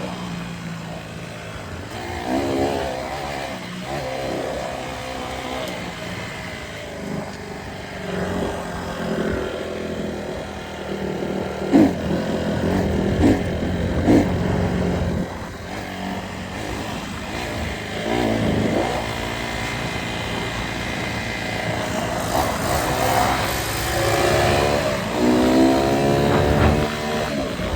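Dirt bike engine idling and revving, the pitch rising and falling again and again, with the strongest revs near the end.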